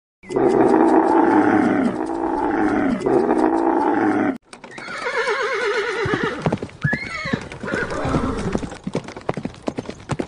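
A camel moaning for about four seconds, then a sudden cut to a zebra calling: a rapid, pulsing, horse-like bray with a high squeal in the middle, amid sharp clicks.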